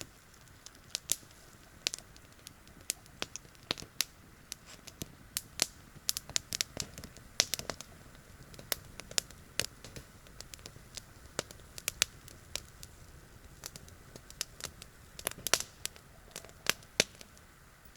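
Campfire crackling, with sharp irregular pops and snaps from the burning wood.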